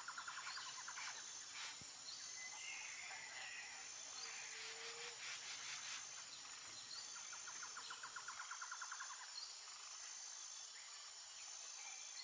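Faint outdoor nature ambience of insects and birds: a steady high insect chirring, a rapid pulsed trill at the start and again about seven seconds in, and scattered short bird chirps.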